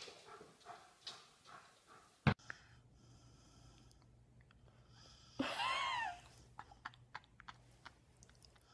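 Faint scattered clicks and a single sharp knock about two seconds in. Later comes one short high-pitched animal call that rises and falls in pitch, under a second long, over a low steady hum.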